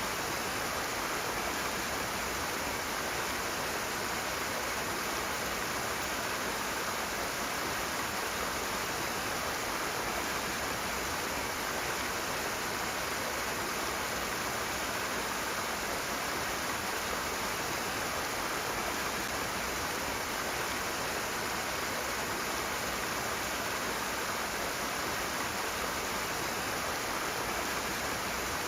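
Rushing water: a steady, unbroken rush with no changes or separate events.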